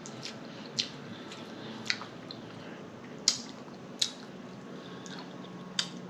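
Close-miked eating: wet chewing and lip smacking, with about five sharp smacks spread over the few seconds.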